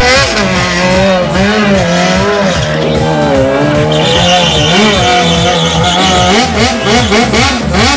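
Motorcycle engine revving up and down hard with tyre squeal, as in a stunt burnout or drift; a steady high squeal holds for a couple of seconds midway, and the revs blip quickly near the end.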